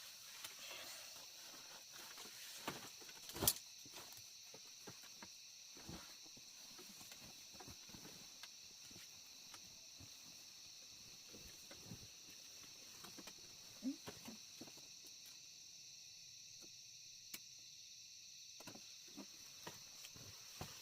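Faint steady insect chorus, a continuous high-pitched drone, with scattered soft clicks and knocks; one sharper knock about three and a half seconds in.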